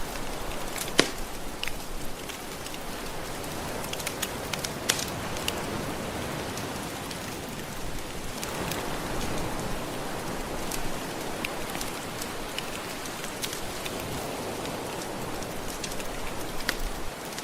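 Soft ocean waves washing ashore in a steady hiss that swells a couple of times, mixed with the scattered pops and crackles of a fireplace fire; the sharpest pop comes about a second in.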